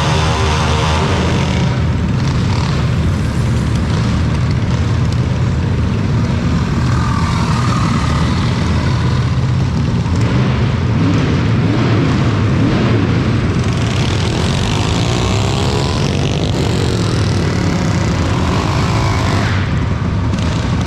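Steady loud engine and vehicle rumble, with an engine's pitch rising and falling a few times in the second half.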